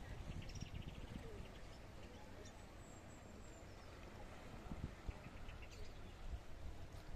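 Small birds chirping faintly, with short trills near the start and again after about five seconds, and a thin high whistle in between, over a low outdoor rumble.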